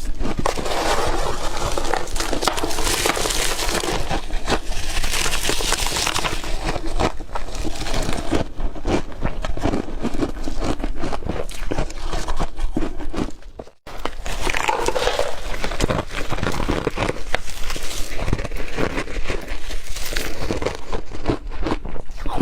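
Hard crushed ice being chewed and crunched close to the microphone: a dense, continuous run of crackling crunches, with a brief break a little past halfway.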